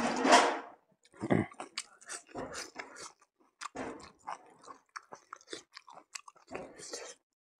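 Close-up eating sounds of a man chewing a mouthful of buffalo meat and rice: quick irregular smacking clicks, with a loud breathy burst right at the start and a heavier bite about a second in.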